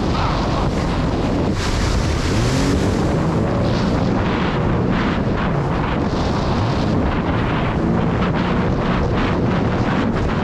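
Jet ski engine running under way, its pitch rising and falling with the throttle, under heavy wind noise on the microphone and rushing water.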